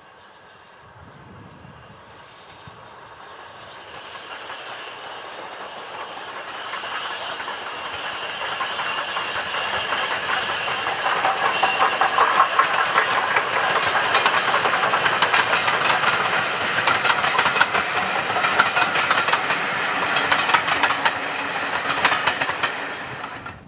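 Steam-hauled train approaching and passing close by. It grows louder over the first ten seconds or so, then holds, with the wheels clicking rapidly over the rail joints. It cuts off sharply just before the end.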